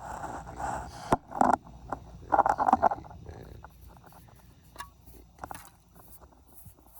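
Scraping and rustling with a few sharp clicks, loudest in the first three seconds, then fainter scattered clicks.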